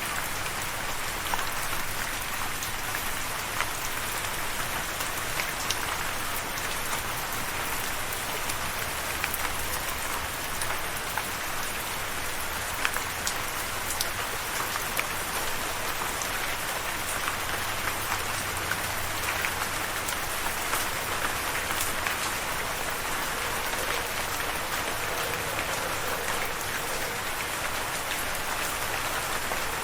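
Steady rain falling, an even hiss with many fine drop ticks of rain hitting a surface.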